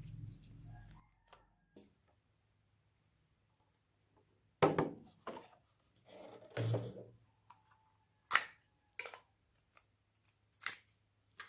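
Close-up hand-handling sounds of slime being worked: a series of sharp crackles and clicks separated by quiet gaps, the loudest about halfway through and again a few seconds later.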